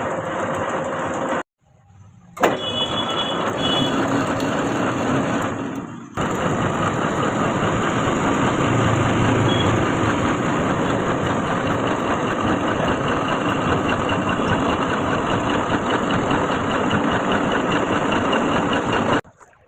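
Lathe running steadily while cutting a coarse 4 TPI thread on a long shaft. The sound drops out abruptly about a second and a half in and again around six seconds in, then stops suddenly near the end.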